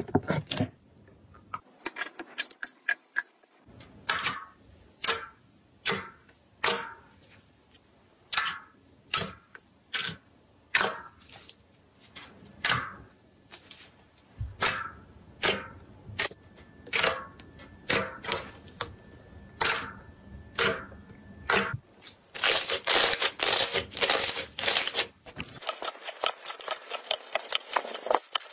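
Slime being pressed and squeezed by hand, giving sharp clicking pops about once a second, then turning into a dense crackle in the last few seconds.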